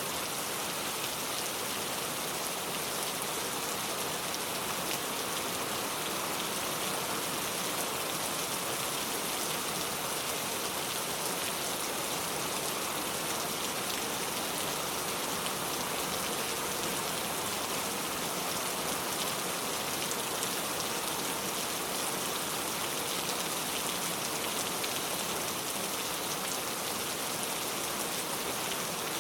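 Steady rainfall, raindrops pattering on surfaces in an even, unbroken hiss.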